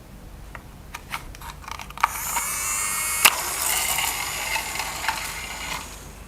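Plastic toy parts being handled: a few separate clicks, then a busy rattling clatter for several seconds with one sharp snap in the middle.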